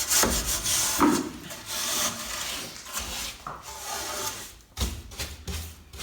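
Scraping and rubbing of wood and tools inside a fireplace being cleared out, a run of uneven strokes that becomes quicker, repeated strokes of about three a second near the end.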